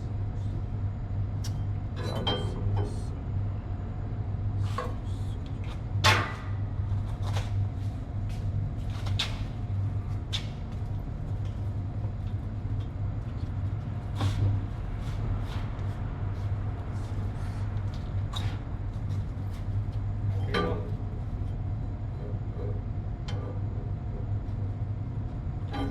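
Irregular metallic knocks and clinks of tools on a 7.5 kW fan motor and its mounting bolts as the motor is shifted and aligned, the loudest about six seconds in. Under them runs a steady low machinery hum.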